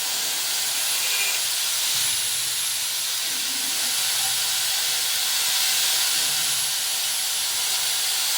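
Angle grinder cutting steel: a loud, steady hissing grind of the disc through the metal.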